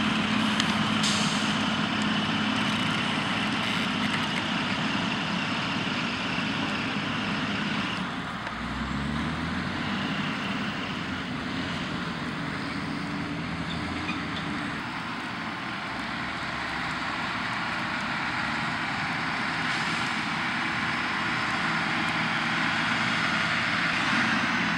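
Heavy truck engines running hard as a stuck semi truck is pushed out of a soft field. About eight or nine seconds in, an engine revs up and its pitch rises.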